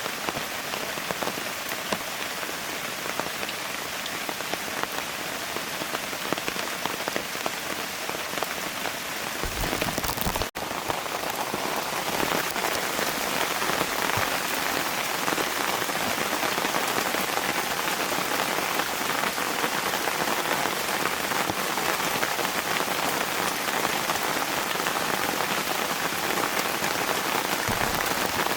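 Steady rain falling, with individual drop impacts audible through the hiss. About ten seconds in the sound cuts out for an instant, and afterwards the rain is a little louder.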